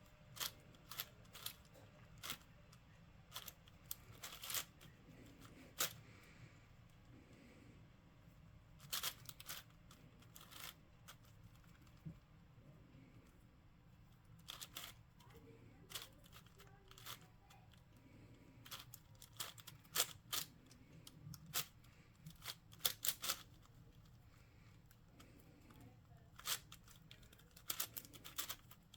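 Plastic twisty puzzle cube being turned by hand during a solve: irregular runs of quick, light plastic clicks and clacks with short pauses between them.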